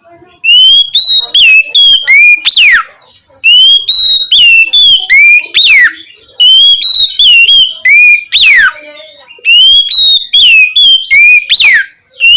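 Oriental magpie-robin singing loud, clear whistled song in four phrases, each a quick run of short whistles ending in a long downward-sliding whistle. This is the 'ngeplong' song, the loud open whistling that keepers play to provoke a reluctant bird to sing.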